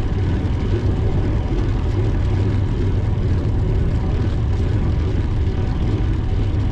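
Steady low rumble of wind buffeting the microphone of a camera on a moving bicycle.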